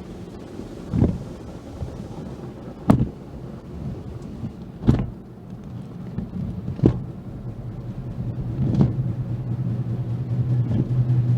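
Automatic car wash heard from inside the car: sharp thumps about every two seconds over a low rumble, with a steady low drone building up from about eight seconds in.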